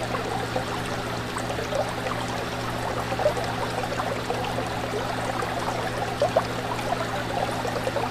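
Aquarium water bubbling and trickling steadily, with many small pops and splashes over a steady low hum.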